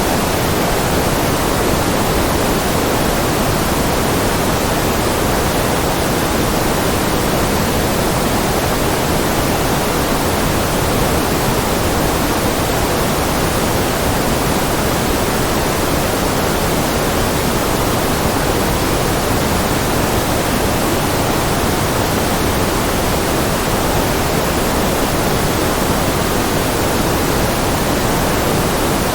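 Steady generated noise for concentration, sold as white noise: an even, unbroken hiss that is fuller in the low and middle range than in the highs, closer to pink noise. It does not change at all.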